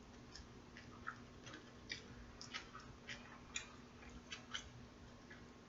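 Faint, irregular wet clicks and smacks of a person chewing food, about a dozen over a few seconds.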